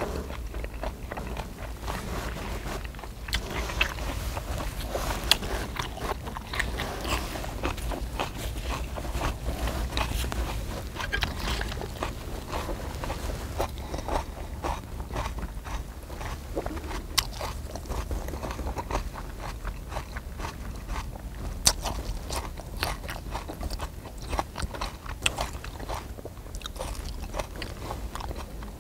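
Close-miked chewing and biting of spicy marinated pork, with many short clicks and crunches. Chopsticks scrape and click on a cast-iron pot-lid griddle as meat is picked up and wrapped in lettuce, over a steady low rumble.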